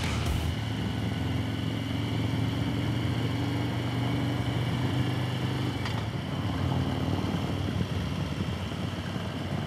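Motorcycle engine running steadily while riding along at an even pace, with road and wind noise underneath.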